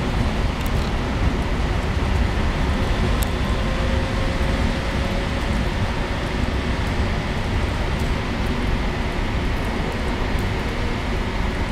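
ALe 426 electric multiple unit pulling out of the station: a steady rumble of the train rolling on the rails, with a faint electric motor whine rising briefly about four seconds in.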